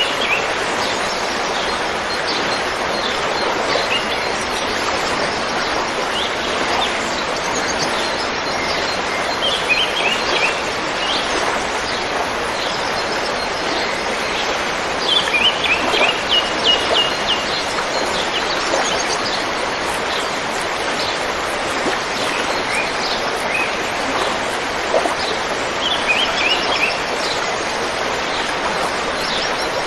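A river flowing with a steady rushing hiss, while small birds chirp over it in short quick runs of high notes every few seconds, busiest around the middle.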